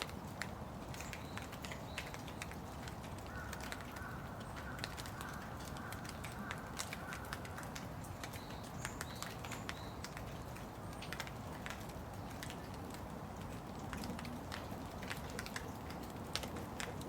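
Steady rain, with many sharp, irregular taps of raindrops and drips landing close by.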